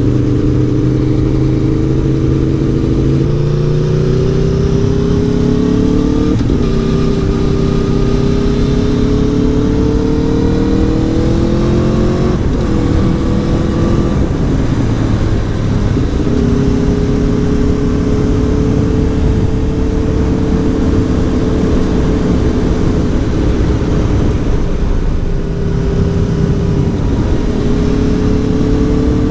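Aprilia Tuono V4 1100 Factory's V4 engine heard from the rider's seat on the move, its note climbing as the bike pulls and stepping at each gear change several times over, with wind rush underneath.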